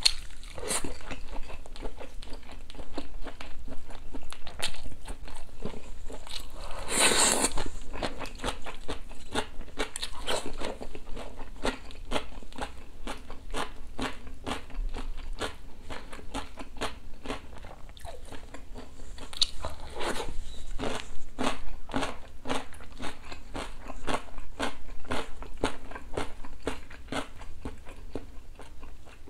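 Close-miked eating: chewing with many small crisp crunches and clicks as smoked chicken and smashed-cucumber pickle are bitten and chewed. One louder noise lasting under a second comes about seven seconds in.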